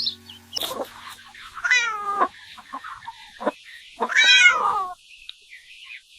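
A cat meowing twice, the second meow longer and louder, each call falling in pitch at its end.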